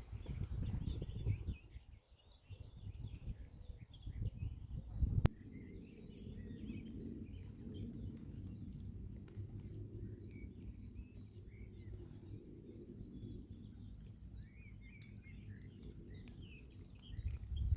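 Small birds chirping and singing throughout, over a steady low rumble, with a few low thumps in the first five seconds and a single sharp click about five seconds in.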